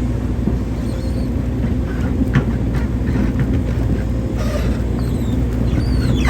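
Hydraulic excavator's diesel engine running steadily while digging, with a few short knocks and clicks about two and a half seconds in.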